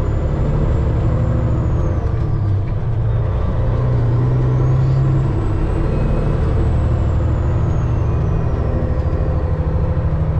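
Semi truck's diesel engine running under way, a steady low drone whose note shifts a couple of times, with a faint high whistle rising and falling twice.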